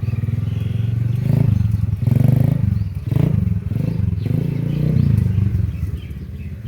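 125cc quad bike (ATV) engine running under throttle, revving up and easing off several times as it is ridden, then dropping back to a lower, steadier idle near the end.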